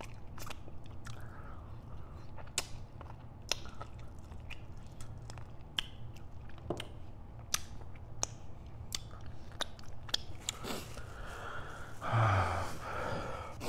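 A person eating, close up: chewing a buffalo wing with scattered wet clicks and lip smacks, then a louder, longer bite into a pepperoni calzone pizza near the end.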